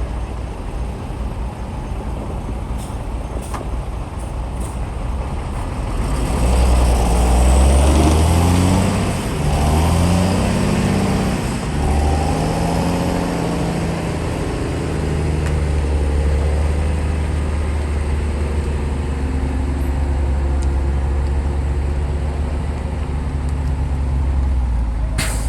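Bulldozer's diesel engine running, then revving harder about six seconds in, its pitch rising and falling for several seconds before it settles into a steady, heavier drone.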